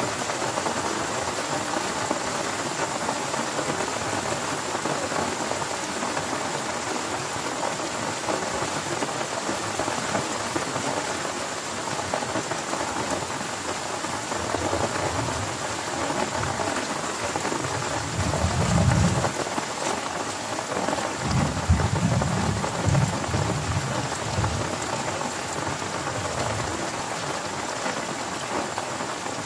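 Heavy rain falling steadily. Thunder rumbles low twice, about two-thirds of the way through, and these are the loudest moments.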